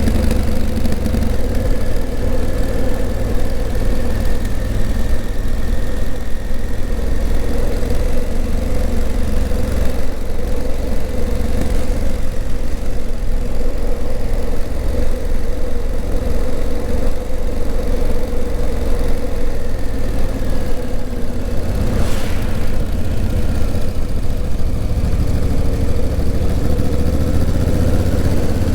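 Honda CRF1000L Africa Twin's parallel-twin engine running steadily while the bike is ridden, with small shifts in engine pitch near the start and end. A single sharp click about 22 seconds in.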